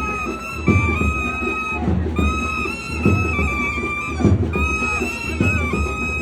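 Nadaswaram playing a melody of long held notes that slide between pitches, over steady thavil drum strokes.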